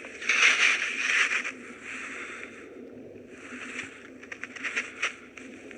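Footsteps crunching through snow, about one step a second, with a few small clicks among the later steps.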